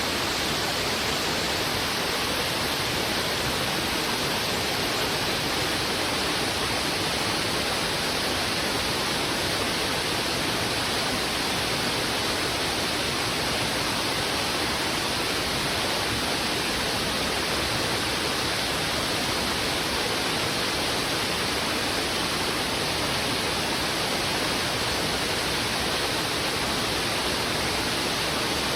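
Fast-flowing river rushing over rocks: a steady, unbroken roar of water.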